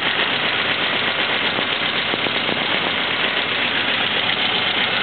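1930 Ford Model A's four-cylinder flathead engine idling steadily, heard close up at the open engine bay.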